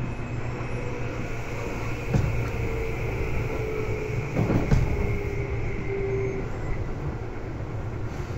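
Seibu 2000 series electric train running, heard from inside the car: a steady low rumble of wheels on rail with a faint whine from the traction equipment that fades out about six and a half seconds in. Two heavier knocks come about two seconds in and about four and a half seconds in, the second the loudest.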